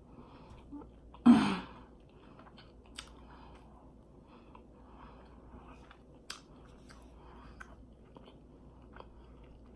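A person chewing a fried egg roll close to the microphone: soft, wet mouth sounds with a few scattered sharp clicks and smacks. One short loud mouth noise with a bit of voice in it comes about a second in.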